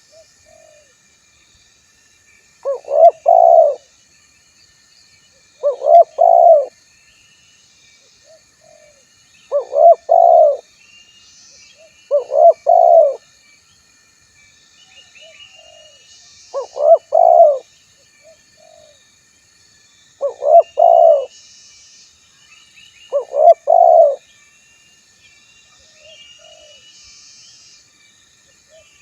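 Male spotted dove (tekukur) cooing: seven short phrases of a few notes each, spaced a few seconds apart, with soft single notes between them. It is a male's challenge call, used as a lure to make other doves call back.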